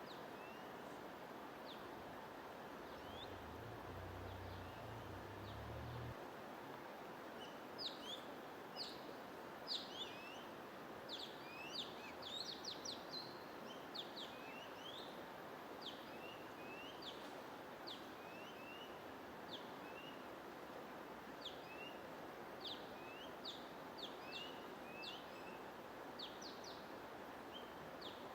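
Songbirds chirping: many short, sharp high chirps, sparse at first and coming thick and fast from about a third of the way in, over a steady rushing noise.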